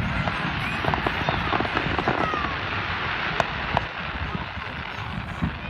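Fireworks crackling: a dense, steady patter of small pops with a single sharper bang about three and a half seconds in, over crowd chatter.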